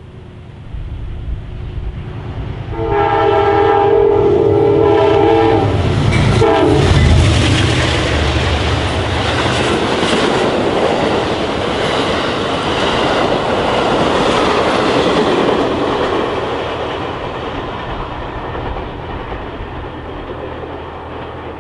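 Amtrak passenger train passing at speed: its locomotive horn sounds a chord for about three and a half seconds, the pitch drops as the locomotive goes by, then the cars rush and clatter past, slowly fading.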